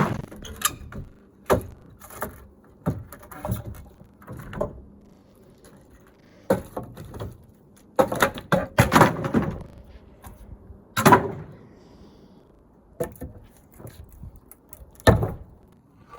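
Irregular knocks, clatters and thuds of an old roof being taken apart by hand, with a busy run of hits about halfway through and single loud knocks after it.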